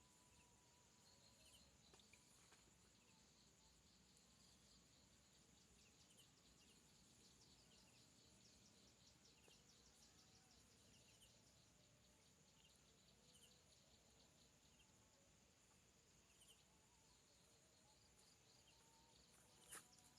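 Near silence with a faint, steady, high-pitched insect drone and scattered short chirps; a sharp knock comes near the end.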